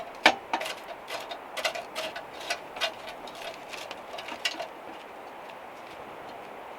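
A run of irregular light clicks and knocks, about a dozen over the first four and a half seconds, the sharpest right at the start, over a steady faint hiss.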